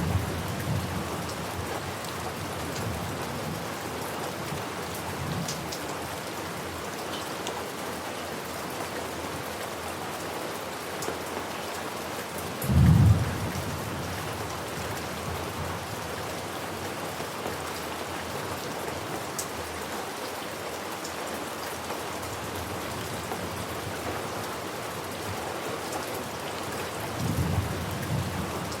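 Steady heavy rain with thunder. Low rumbles roll through, and one strong, short thunderclap comes about halfway.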